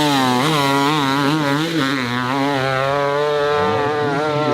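Dirt bike engine revving hard, its pitch wavering rapidly up and down as the throttle is worked.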